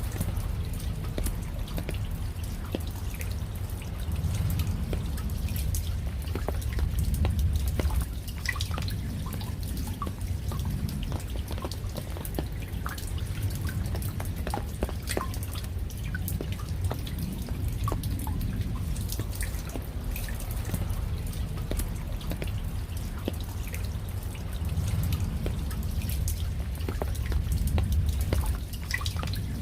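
Rain falling, with many separate drops ticking and dripping over a steady low rumble that swells and eases a couple of times.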